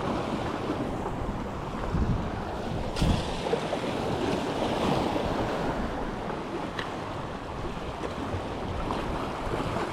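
Waves washing against the jetty, with wind buffeting the microphone. A couple of dull thumps come about two and three seconds in.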